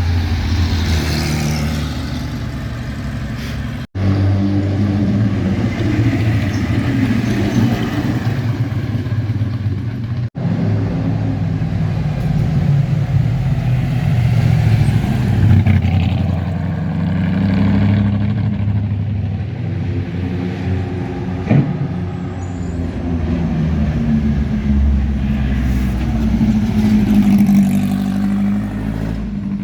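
A convoy of classic and sports cars driving past one after another, their engines running and revving, with pitch rising and falling as each goes by. There is a single sharp pop about twenty seconds in.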